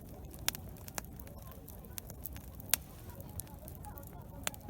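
Wood campfire crackling, with a handful of sharp pops, the loudest about two and a half seconds in, over a murmur of voices.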